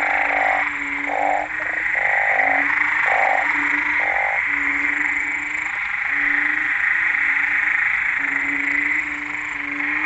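Frog breeding chorus after rain, with banded bullfrogs (Kaloula pulchra) calling over and over in low notes. A steady high-pitched drone of other callers sits underneath, and a run of short, evenly spaced calls stops about halfway through.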